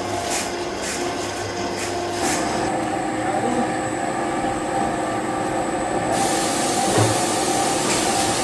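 Plastics factory machinery running steadily with a hum of several held tones; a thin high whistle joins about two seconds in, and a hiss comes in about six seconds in.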